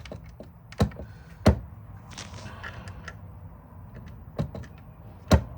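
Hard knocks and clicks of a cordless drill's plastic housing and parts being handled and fitted back together: four sharp knocks among lighter ticks, with a short scrape about two seconds in.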